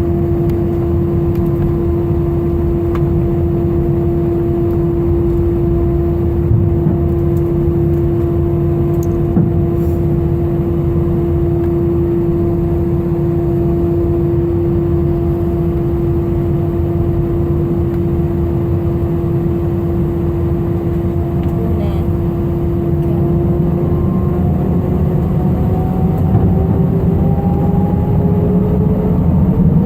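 Jet airliner engines heard from inside the cabin: a steady loud rumble with a steady whine. The whine glides upward in pitch over the last several seconds as the engines spool up for takeoff.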